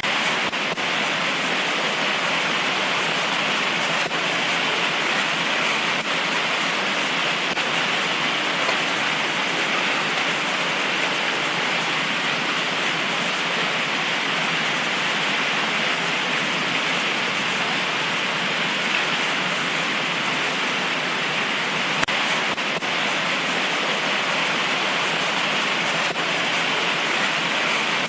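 Heavy tropical rain pouring down steadily in a dense, even hiss, with no thunder in this stretch.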